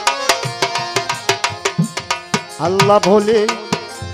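Instrumental qawwali interlude: tabla strokes in a quick, steady rhythm under a melody line that swells and bends in pitch during the second half.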